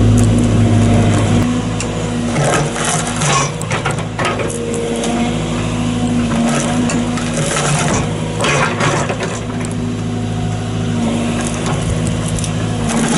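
Excavator engine running steadily under load while the bucket's teeth scrape and crack through tree roots, with irregular sharp cracking and scraping on top of the engine.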